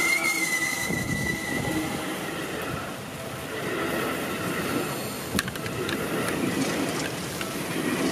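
Seibu electric commuter train running past close by on wet track, a steady rumble of wheels on rails. A thin high squeal sounds for the first two seconds, and a sharp click comes about five and a half seconds in.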